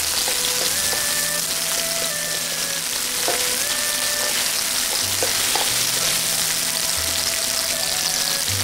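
Chopped red onions sizzling steadily in hot oil in a wok while being stirred with a wooden spatula, in the first half-minute of frying as the onions soften.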